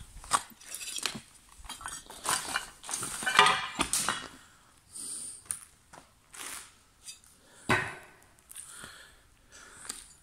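Irregular clinks, knocks and crunches of small hard objects, loudest about three to four seconds in, with another sharp knock near eight seconds.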